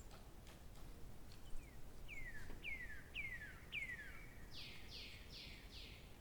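A bird singing: four whistled notes, each sliding downward, about half a second apart, followed near the end by four harsher, fuller notes at a higher pitch.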